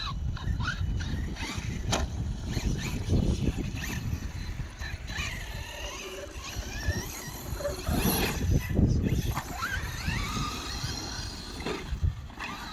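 Electric RC monster trucks on 4S batteries driving on dirt: their motors whine up and down in pitch with the throttle over a constant low rumble, with scattered clicks and knocks.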